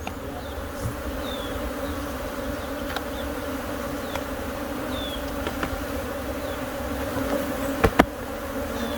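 A mass of honeybees buzzing, a steady hum from the swarm being moved from its broken tree nest into a box. Two sharp clicks come close together about 8 seconds in.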